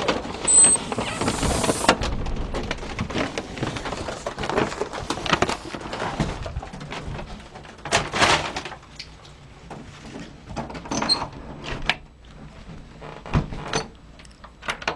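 Handling noise of a delivered shopping bag with balloons tied to it: rustling for the first couple of seconds, then scattered knocks, clicks and thuds.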